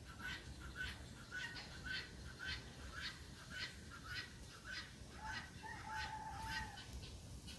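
Faint, repeated bird chirps, about two a second, with a steadier lower call from about five seconds in.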